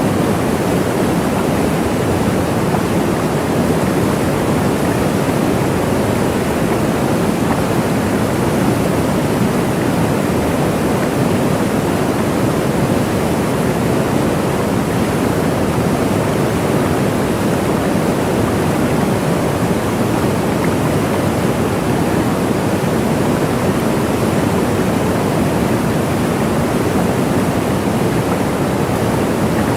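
Waterfall: a steady, even rush of falling water, strongest in the low and middle range.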